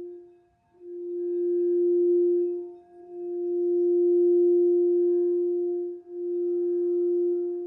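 Crystal singing bowl, tuned for the heart chakra, sounding one steady, pure tone with a faint higher overtone. The tone swells and fades, nearly dies away about half a second in, then comes back and dips briefly twice more.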